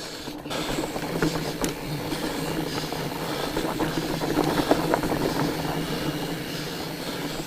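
Fat bike rolling over a rocky trail: a steady drone from the wide knobby tyres, with many small rattles and clicks from the bike over rocks and roots.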